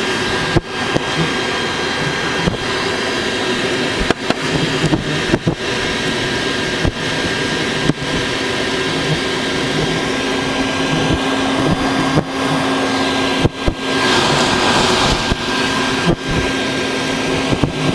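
Vacuum running steadily as it sucks bald-faced hornets off their nest through the hose, with scattered short clicks and brief dips in the noise.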